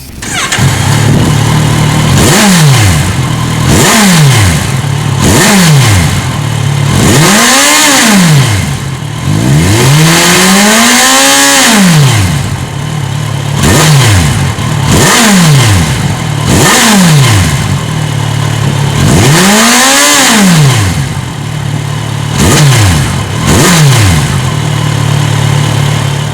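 Kawasaki Ninja ZX-6R inline-four with a LeoVince Factory R Corsa full exhaust, revved from idle about a dozen times. Most are short blips, a few are held longer, and the engine settles back to a steady idle between them.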